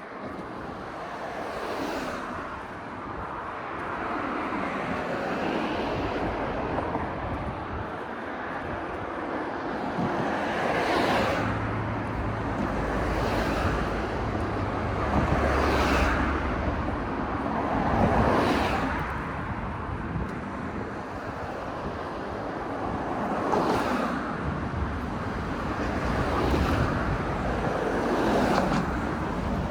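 Road traffic: cars passing one after another, each rush of tyre and engine noise swelling and fading every few seconds, with a low engine hum in the middle.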